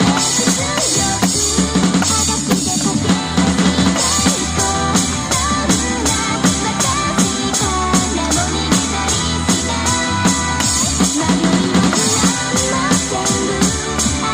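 Drum kit played along to a pop song's recording: kick, snare and steady cymbal hits over the song's band and singing.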